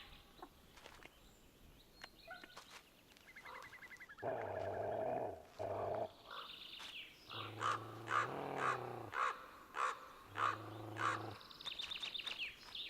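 Crow-family birds calling: harsh caws and low croaks in several bouts, with fast rattling calls between them.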